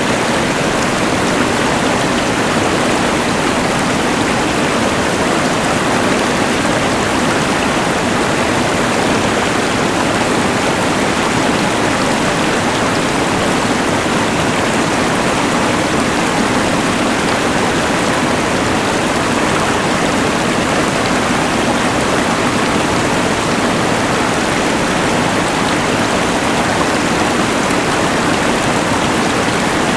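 Rushing mountain river layered with the hiss of a LectroFan white noise machine: a steady, unchanging wash of noise.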